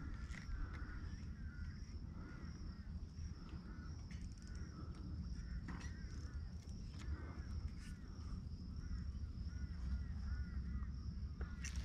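Birds calling in short, repeated chirps over a steady high-pitched buzz, with a low rumble and a few soft clicks.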